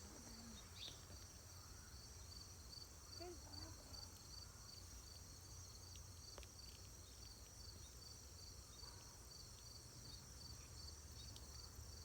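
Faint chorus of insects: a steady, high-pitched trill with a regular pulse a few times a second, over a low background rumble.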